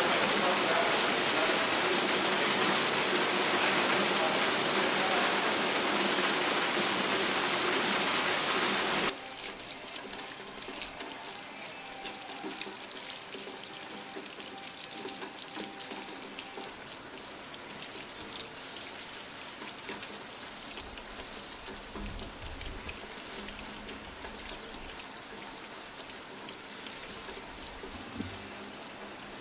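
Heavy rain pouring down in a loud, even hiss; about nine seconds in it cuts suddenly to quieter rain, with drips and runoff ticking and splashing on wet concrete and a faint steady high tone underneath.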